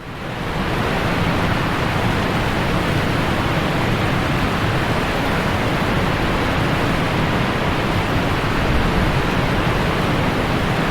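Steady rushing roar of the Boti Falls twin waterfall, fading in at the start and then holding even.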